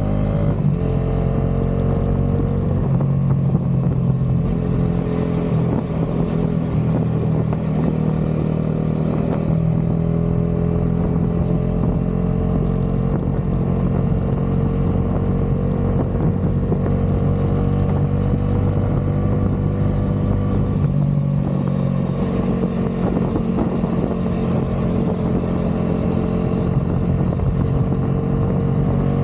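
Bajaj Dominar 400 motorcycle's single-cylinder engine and exhaust running on the move. The pitch drops about a second in, then the bike holds a steady cruise that slowly rises in pitch, with a brief shift in engine note about two-thirds of the way through.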